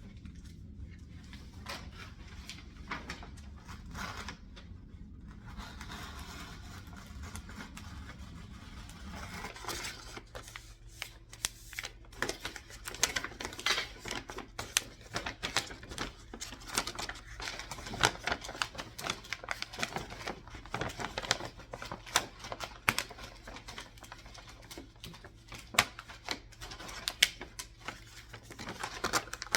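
Gift wrapping by hand: paper crinkling and tearing, with quick sharp clicks and snips, starting about ten seconds in. Before that, only a steady low hum.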